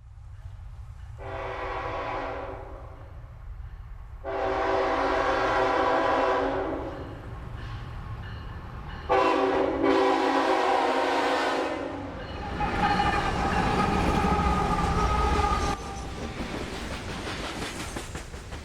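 Diesel locomotive air horn blowing four long blasts over the steady low rumble of the locomotive's engine.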